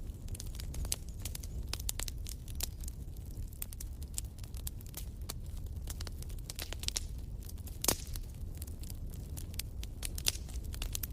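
Wood fire crackling in a fireplace: scattered sharp pops and snaps over a low steady rumble of the flames, with one louder pop about eight seconds in.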